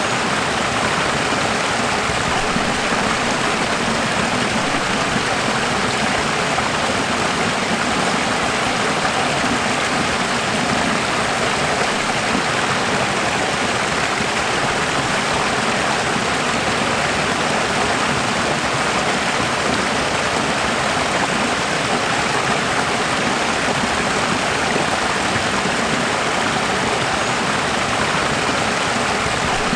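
Running water, a steady even rush like a stream or small waterfall, unchanging throughout.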